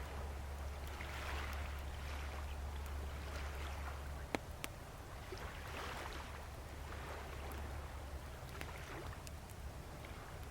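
Small waves washing onto the shore, swelling and falling back every two to three seconds, over a low rumble, with a wood bonfire crackling and one sharp pop about four seconds in.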